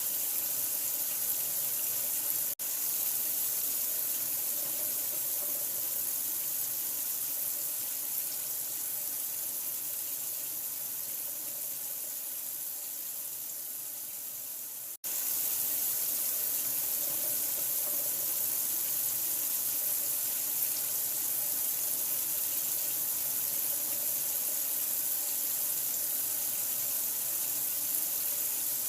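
Steady running water, a continuous even rush like a tap pouring into a sink. It cuts out for an instant twice, about two and a half seconds in and again about halfway through.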